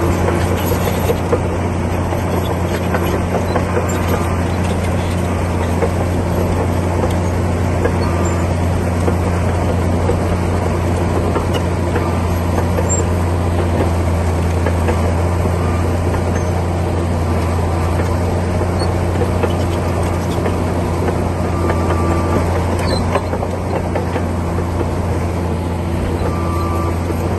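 Komatsu D60P bulldozer's diesel engine running steadily, a loud low drone with no change in pitch.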